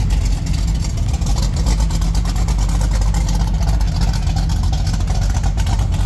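Vehicle engine running with a steady deep rumble.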